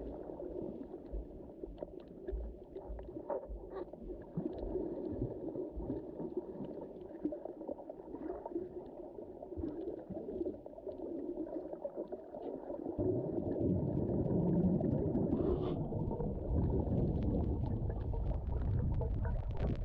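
Underwater sound in shallow sea: a steady, muffled wash of moving water with scattered small clicks and crackles. About two-thirds of the way through, a deeper, louder rumble of water movement sets in.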